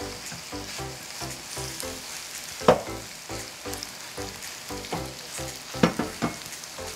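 Chive-and-shrimp pancake batter sizzling in hot oil in a frying pan: a steady crackling hiss, with sharp loud pops about three and six seconds in. Background music with a steady beat plays underneath.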